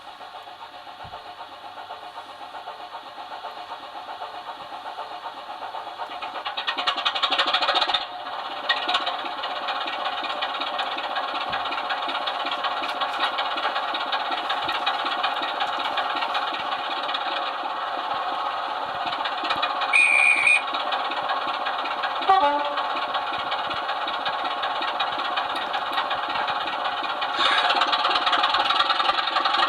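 DCC sound decoder in a Sutton's OO-gauge Class 24 model playing the Sulzer diesel engine running, thin through the loco's small speaker as it runs round the layout. The sound grows louder over the first several seconds, then holds steady. There is a brief high tone about twenty seconds in, a few clicks soon after, and it rises again near the end.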